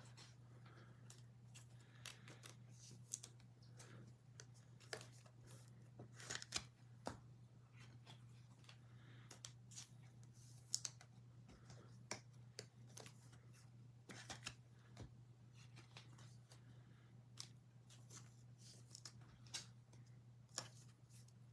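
Near silence: faint, scattered clicks and rustles of trading cards being handled and sorted, over a low steady hum.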